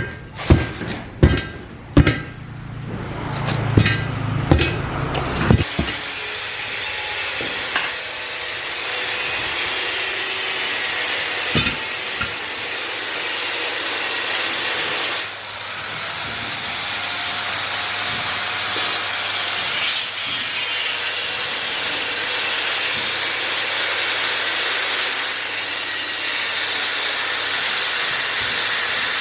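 A few sharp knocks in the first five seconds, then a steady hissing noise that runs on, briefly dropping about halfway through.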